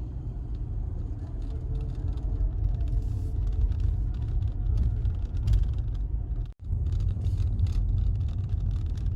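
Steady low rumble of a car driving along a road, heard from inside the car. The sound cuts out completely for an instant about six and a half seconds in.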